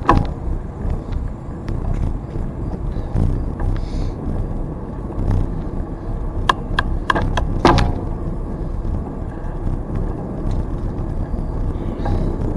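Steady low rumble of wind on the microphone and tyre noise from a bicycle rolling along a trail. Sharp clicks and rattles come at the very start and in a cluster about six and a half to eight seconds in.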